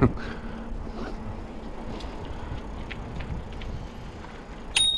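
Bicycle rolling along with faint light ticking, then a sharp, high ring near the end that lingers briefly.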